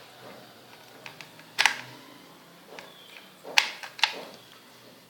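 Sharp plastic clicks and knocks, three of them louder, from handling an electric toy football while batteries are fitted into its battery compartment.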